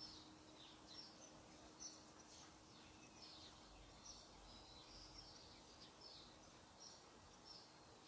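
Faint outdoor birdsong: a steady run of short, high chirps repeating every fraction of a second, over a quiet background hiss.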